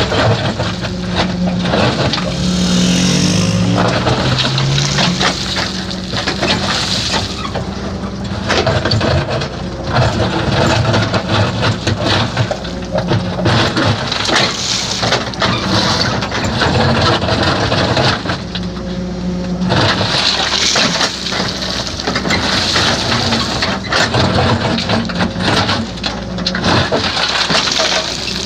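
Heavy construction machinery at work: an engine running and changing pitch as it revs up and down, with repeated sharp knocks and cracks of material being moved or broken.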